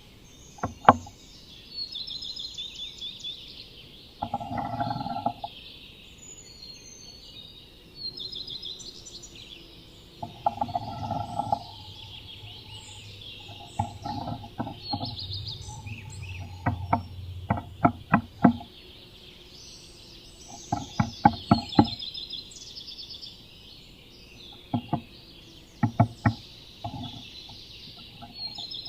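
Sharp taps and short scratchy rustles from inside a wooden nest box as a Eurasian nuthatch works on its nest, with a fast run of taps a little after the middle. Wild birds chirp and sing steadily in the background.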